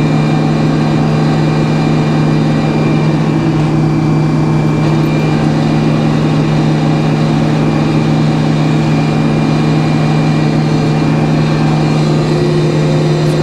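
Sawmill's engine running steadily at a constant speed, a loud, even drone with no changes.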